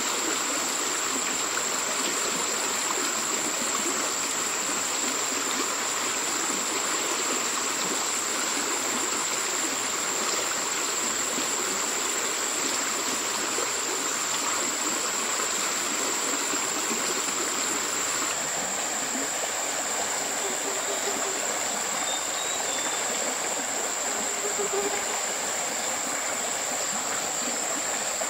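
Water running in a stream, a steady even rushing with no breaks. A thin high-pitched tone rings steadily over it, and the rush changes character slightly about two-thirds of the way through.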